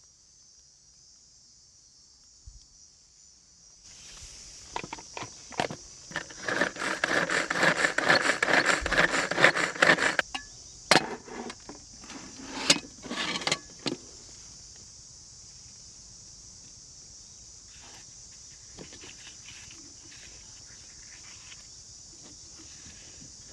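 Steady high-pitched chirring of insects, with a burst of rustling, clicking and clattering from handling things between about 4 and 14 seconds in.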